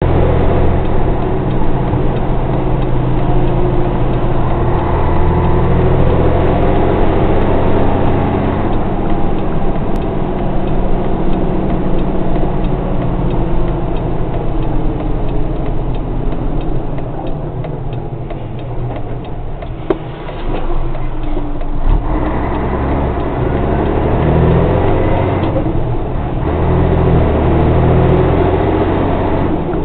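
Scania bonneted truck's diesel engine running under way, a steady low engine note that eases off for a few seconds about two-thirds of the way through and then picks up again.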